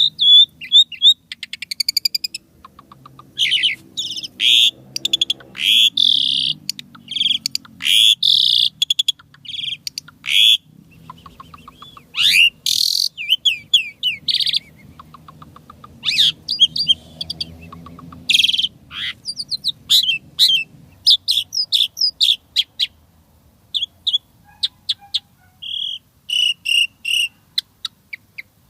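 An Asian pied starling (jalak suren) singing a varied song of loud, sharp whistles, chirps and rapid rattling trills, with mimicked notes worked into it. The song comes in quick runs with short breaks and grows sparser near the end.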